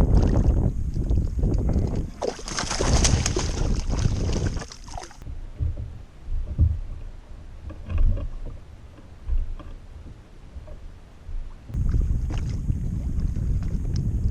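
Wind buffeting the microphone over water lapping at a kayak's hull, with a spell of splashing hiss a few seconds in. Quieter in the middle with a few soft knocks against the hull, then the wind rumble returns abruptly near the end.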